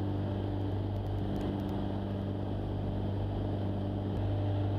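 Jabiru light aircraft's piston engine and propeller droning steadily in flight, heard from inside the cockpit, growing slightly louder about four seconds in.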